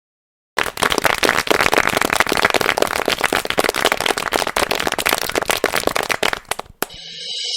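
A dense, rapid run of sharp cracks and pops that starts suddenly about half a second in and stops abruptly near the end.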